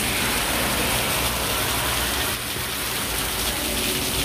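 Heavy rain falling on a wet asphalt road: a steady, even hiss of a downpour.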